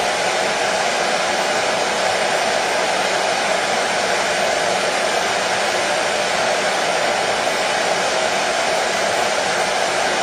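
Electric hair dryer blowing steadily, an even unbroken rush of air with a motor hum, kept running as white noise for a baby's sleep.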